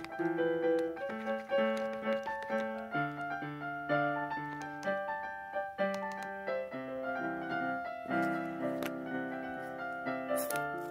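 Background piano music: a continuous melody of separate, sustained notes, with a few faint clicks near the end.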